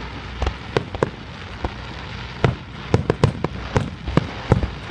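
Fireworks display bursting: many sharp bangs at irregular intervals, coming thicker and faster in the second half.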